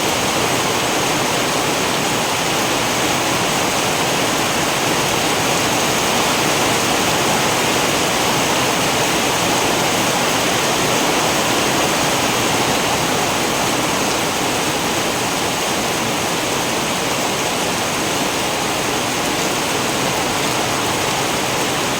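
Steady heavy rain falling, a dense even hiss that holds without change.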